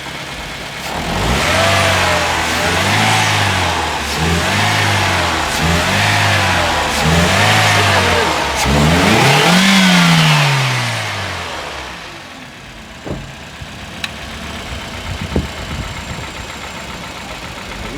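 Toyota Corolla XLi's engine being blipped about six times in quick succession, then revved once more for longer and let fall back to idle. A few sharp taps sound over the idle near the end. The engine is being run up for a VVT-i sound problem.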